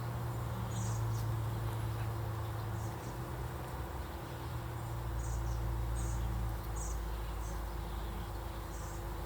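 Honey bees buzzing around an open hive as a frame is held up for inspection, a steady hum. Short high chirps recur about once a second over it.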